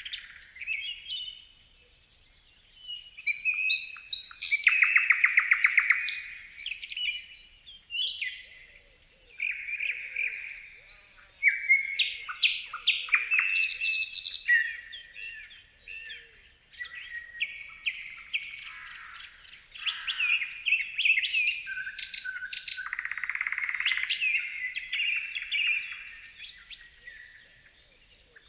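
Several songbirds singing and chirping in a busy, varied chorus of whistles, chirps and trills, with a fast trill about five seconds in.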